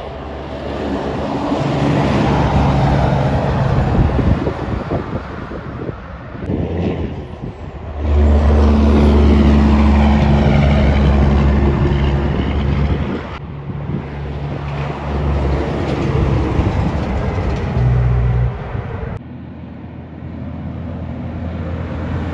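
Diesel engines of Kenworth trucks running as they drive by, several in turn, with sudden changes between passes. The loudest pass comes from about eight to thirteen seconds in.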